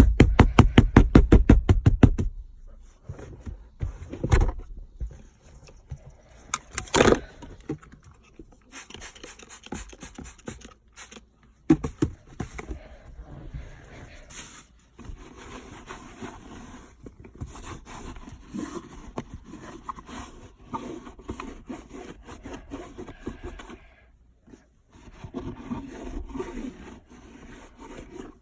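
Rapid rattling knocks for about two seconds, then scattered knocks and scraping and rubbing as a car's interior is cleaned by hand.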